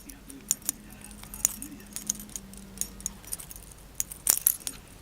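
Irregular sharp clicks and light taps, a quick cluster of louder ones about four seconds in, from a cat batting and clawing at a vacuum cleaner's plastic body.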